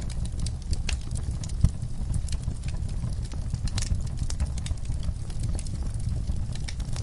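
Wood fire burning in a fireplace: irregular crackles and pops over a low steady rumble, with one sharper pop about a second and a half in.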